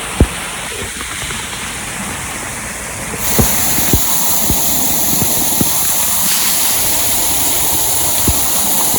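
Waterfall's steady rush of falling water, stepping up louder about three seconds in, with a few short low thumps over it.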